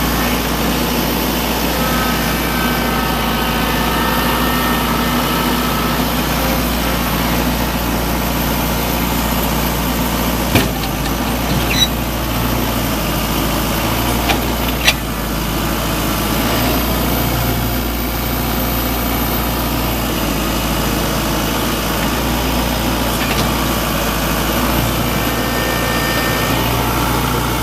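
2006 New Holland TC45D compact tractor's diesel engine running steadily, with a few short sharp clicks about halfway through.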